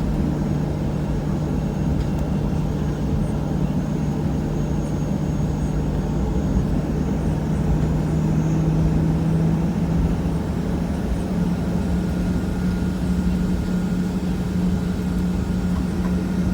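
Steady drone of a Boeing 737-800's CFM56 jet engines heard from inside the passenger cabin. Its low tone rises slightly about halfway through and then holds steady.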